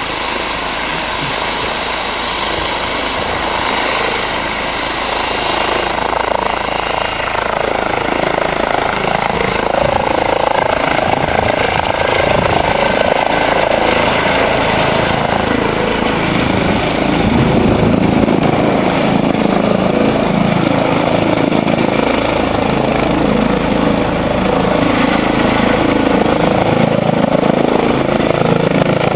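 Medical helicopter's turbine engine and rotor running, with a high turbine whine that climbs slightly in pitch about seven seconds in while the sound grows gradually louder.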